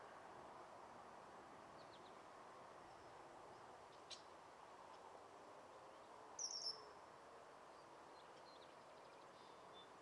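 Quiet outdoor ambience with a faint steady hiss, broken by a few brief, high small-bird chirps. The loudest is a quick cluster of high notes about six and a half seconds in, and there is a sharp tick a little after four seconds.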